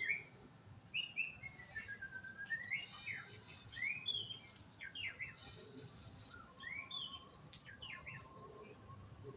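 White-rumped shama (murai batu) singing: varied whistled phrases that glide up and down, coming in several runs with short pauses between them.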